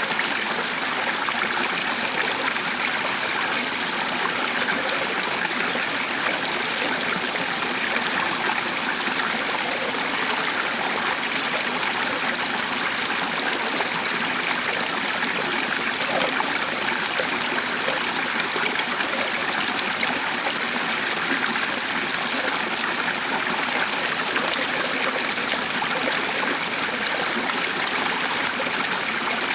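A stream of water running steadily, an even rushing and trickling with no breaks.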